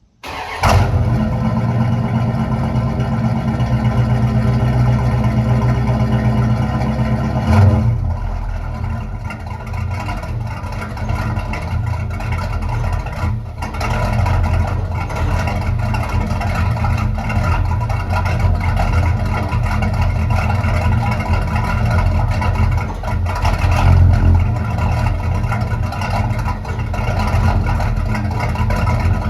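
1971 Dodge Dart's 360 V8 cold-starting: it catches almost at once with a short flare of revs, then runs at a steady fast idle. About eight seconds in the idle steps down, and it keeps running with a small rise in revs near the end.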